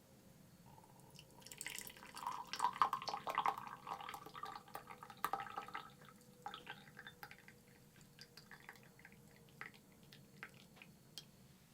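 Liquid being poured into a cup or container for about four seconds, with dripping and splashing, followed by scattered small ticks and drips.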